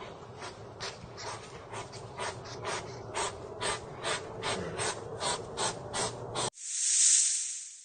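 Rapid, evenly spaced clicking, about four clicks a second, cut off suddenly about six and a half seconds in by a whoosh that swells and fades.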